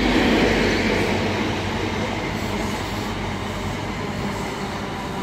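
Diesel High Speed Train, led by a Class 43 power car, running into the platform: steady noise of wheels on rail and engine hum that slowly eases in level.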